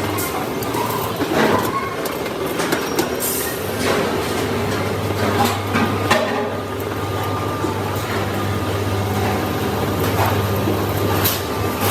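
Workshop machinery running with a steady low hum, with irregular sharp metal knocks and clanks over it.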